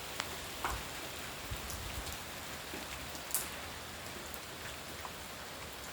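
Steady rain falling: an even hiss with scattered louder drops ticking on nearby surfaces, one sharper drop about three seconds in.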